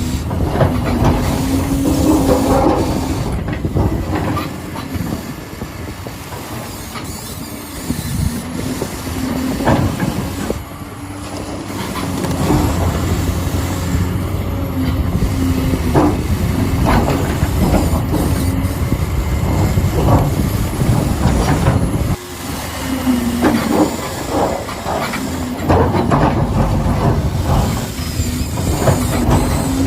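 Huina 1593 radio-controlled excavator's small electric motors and plastic gearboxes running, with clicking and rattling, a whine that starts and stops as different functions are worked, and a brief break about 22 seconds in.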